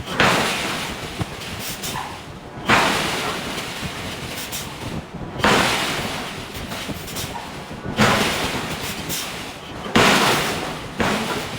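Giant hydraulic forging hammer striking hot steel: five heavy blows about two and a half seconds apart, each fading away after the hit, over a steady background din.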